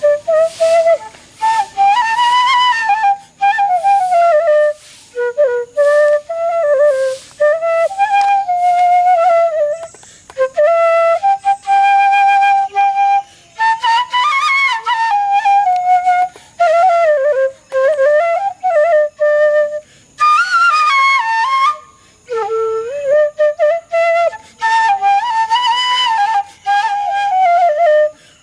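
Background music: a solo flute playing a slow, wavering melody in phrases with short breaks between them.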